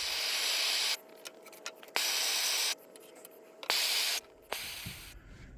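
Three short bursts of spray hissing, each a second or less, with a faint steady tone under the hiss.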